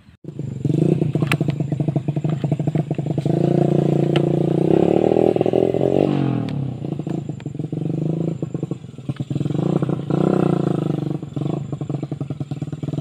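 Motorcycle engine running with a rapid, steady pulse, starting abruptly; its pitch shifts and drops around six seconds in, as when easing off the throttle.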